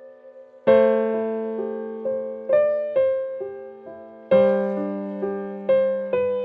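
Slow, gentle solo piano background music: single notes and soft chords struck and left to ring out, with fuller chords about a second in and again past the middle.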